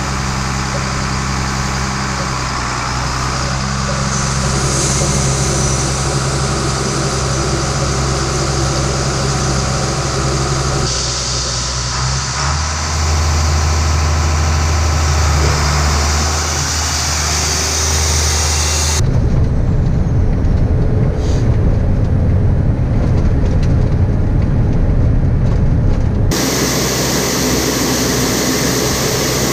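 John Deere 7800 tractor's diesel engine running steadily, its hum changing abruptly several times between cut-together clips; from about two-thirds of the way in, a rougher, noisier rumble takes over for several seconds.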